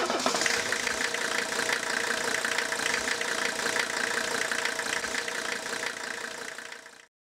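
Diesel engine idling with a steady clatter of fast ticks, fading out near the end.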